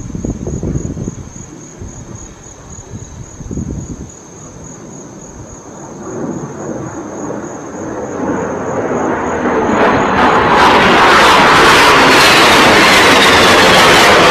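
Low-flying aircraft approaching, its noise swelling steadily from faint to very loud over about ten seconds, then holding loud as it passes overhead with a slight falling whine.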